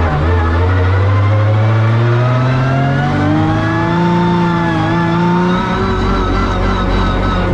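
Turbocharged 2JZ straight-six of a Toyota Supra drift car under load: after a drop in pitch at the start, the revs climb steadily for about four seconds, then hold high with a brief dip.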